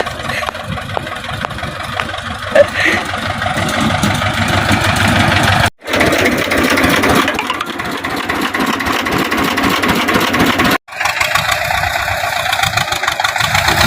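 HMT 2511 tractor's diesel engine running steadily, working through water and mud. The sound breaks off abruptly twice, for a moment each time.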